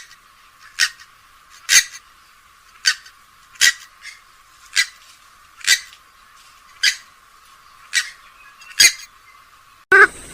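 Playback of a rail-family waterbird (swamphen or moorhen recording) giving a series of short, sharp calls about one a second. Near the end a louder, different wavering call cuts in.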